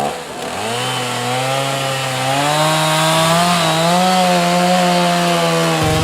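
Chainsaw revving up from a sharp start, its pitch climbing over the first couple of seconds. It then runs steadily at high speed, cutting through a log, the pitch wavering a little under load.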